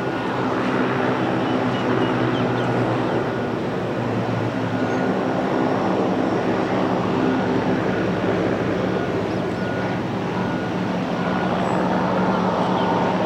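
Large aircraft engines running, a steady, unbroken drone with a low hum underneath and a faint high whine.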